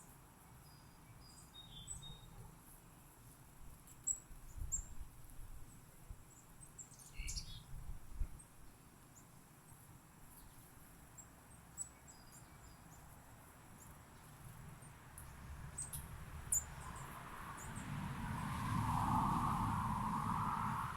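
Small birds chirping now and then with short, high calls, one a quick downward sweep. Near the end a low rumbling hum builds up and grows louder.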